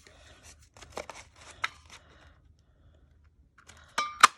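Paper tags rustling and being handled, with a few light taps, then a short pause and two sharp clicks close together near the end, the second loudest with a brief metallic ring.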